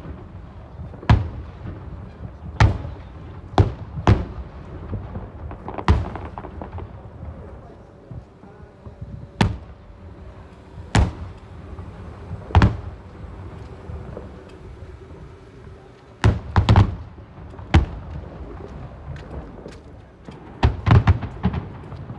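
Aerial fireworks bursting: about a dozen sharp booms at uneven intervals, each dying away briefly, with quick clusters of several bursts about two-thirds of the way in and again near the end.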